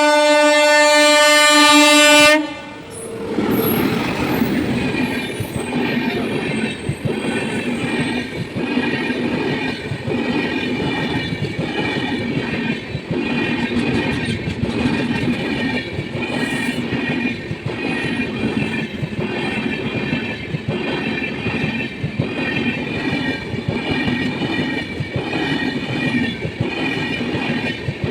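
A locomotive horn sounds one long blast that cuts off about two seconds in. A passing train follows, its wheels clacking in a steady rhythm over the rail joints, with a high ringing squeal above the rumble.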